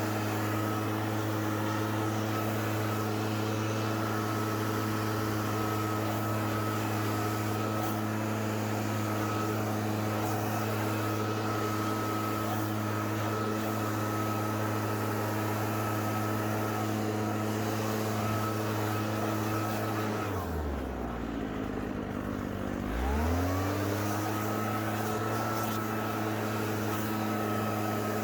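Gas leaf blower's small engine running steadily at full throttle; about twenty seconds in it is throttled down to idle for a couple of seconds, then revved back up to full speed.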